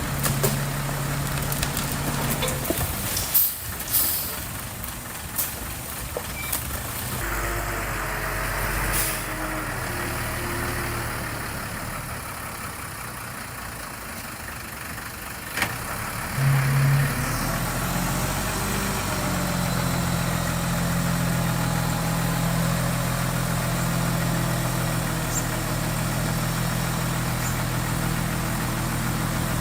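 Diesel engine of a Komatsu D20P bulldozer working, its pitch and load shifting, with a few sharp metallic knocks in the first half. It settles into a steady run for the second half.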